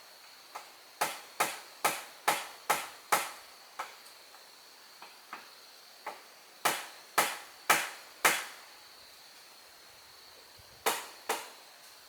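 A tool striking wood in quick, even blows, about two a second. A run of six, then four after a pause, then two more near the end, each with a short ringing tail.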